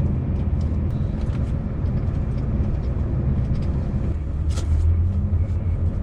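Scania V8 truck engine running with a steady low drone. A short sharp sound cuts through about four and a half seconds in.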